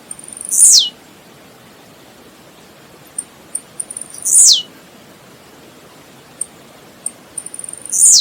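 Blue-black grassquit (tiziu) singing its short song three times, about every four seconds: a few quick high ticks, then a loud buzzy note sweeping sharply down in pitch. A faint steady hiss underlies it.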